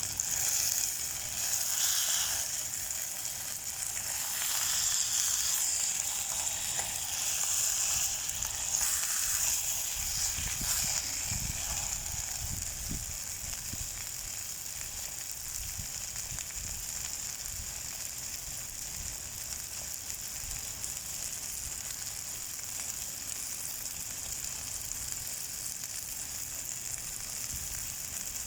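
Marinated chicken thigh sizzling in a frying pan. The sizzle is louder and uneven for the first ten seconds or so, then settles to a steady level.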